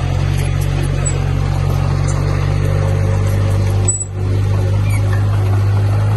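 Diesel engine of heavy construction machinery running steadily under load, with a brief break about four seconds in after which its note sits a little lower.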